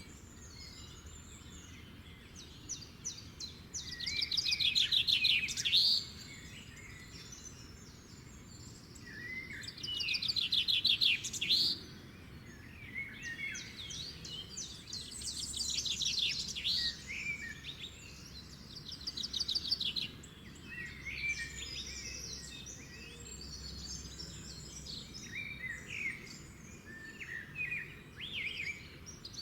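Wild birds singing. Two loud rapid trilled songs, each about two seconds long, come around four and ten seconds in, among many scattered shorter chirps and phrases from other birds.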